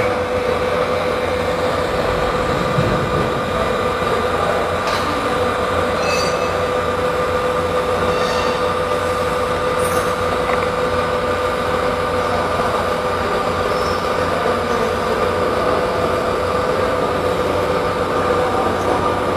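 Automatic circular-seam argon arc (TIG) welding machine running: a steady hum with a steady whine over a constant hiss, with a few faint ticks.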